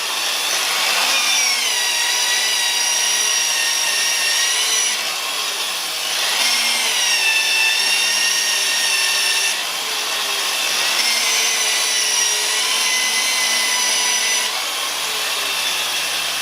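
Power sander whining steadily as it sands wood turning on the lathe, with a rubbing noise under the whine. The pitch drops and settles three times. It is sanding away torn grain.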